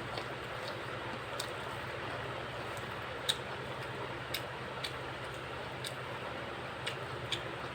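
Eating sounds: short, sharp mouth and food clicks from chewing, coming at irregular intervals over a steady background hiss.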